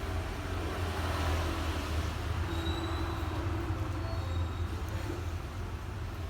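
Steady low motor-like rumble under a haze of noise.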